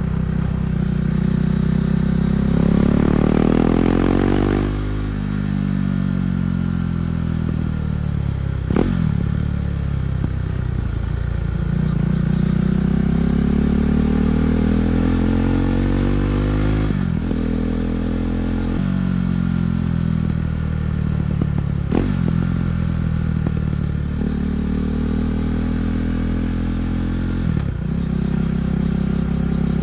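KTM 390 Duke's single-cylinder engine through an Akrapovic exhaust, riding and accelerating through the gears. The revs climb, then drop sharply at each gear change, several times.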